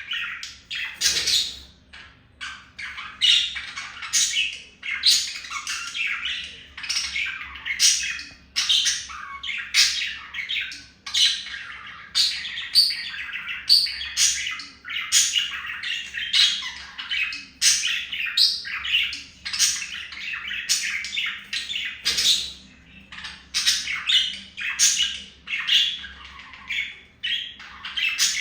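Budgies chattering without pause, with many short, sharp squawks.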